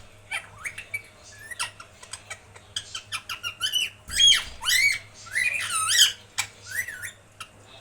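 Pet parrot squawking and chirping: a rapid series of short calls that slide up and down in pitch, loudest and most crowded in the middle.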